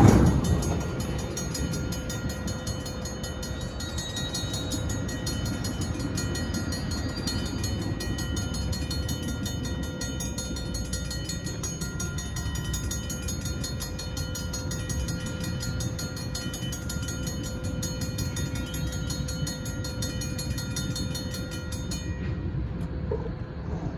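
Stockton Terminal & Eastern train running with a steady low rumble and hum. A louder sound fades away in the first half second.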